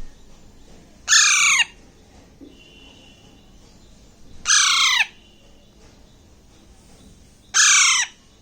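Alexandrine parakeet chick, about six weeks old, calling three times about three seconds apart; each call is loud, about half a second long and falling in pitch.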